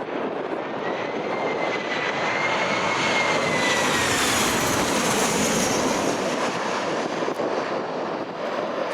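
An aircraft's engines passing, swelling through the middle and then easing off, with a thin high whine that drops in pitch as it goes by. Strong wind buffets the microphone.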